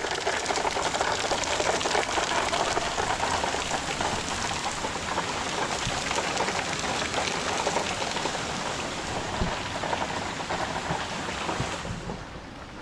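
Water spraying and rushing from a high-pressure water line, a steady dense hiss that drops away sharply near the end.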